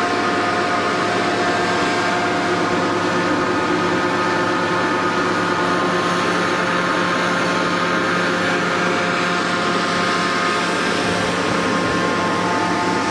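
Steady machine noise: a constant hum of several tones under a hiss, holding level without a break.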